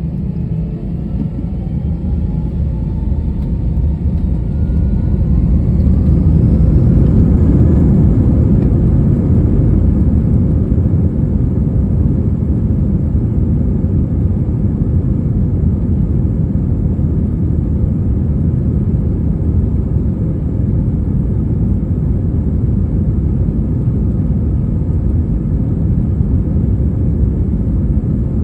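Airliner jet engines spooling up for takeoff: whining tones rise in pitch and the rumble grows louder over the first six seconds, then a steady loud rumble of engines at takeoff power.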